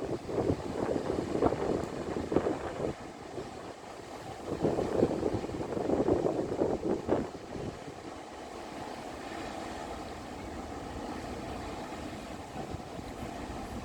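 Wind gusting across the microphone in irregular surges for the first half, then settling to a steady rushing noise.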